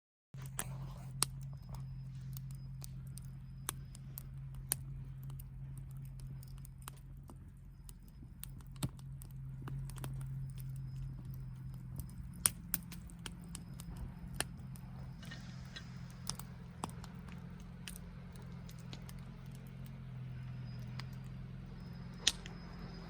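Wood campfire crackling, with irregular sharp pops and snaps over a low steady background.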